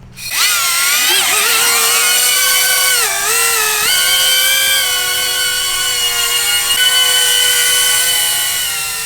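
Quadcopter drone's propeller motors spinning up with a rising whine, then a steady high-pitched buzz as it flies, shifting down and back up in pitch around three seconds in.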